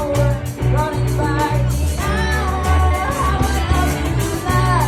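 A live band playing a song with a singer's voice over it and a steady bass and drum beat.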